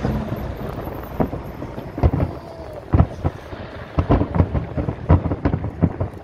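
Aerial fireworks shells exploding in a run of sharp bangs that come faster and closer together from about four seconds in.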